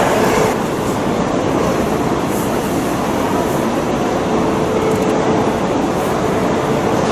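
Shinkansen train running at speed, heard from inside the passenger car: a steady rumble and hiss of the ride, with a faint steady hum.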